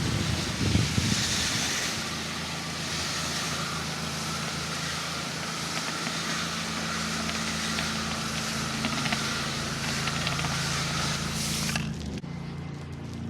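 Pressure washer wand spraying water in a steady hiss, with the machine's engine humming steadily underneath. About twelve seconds in the spray cuts off and only the engine hum goes on.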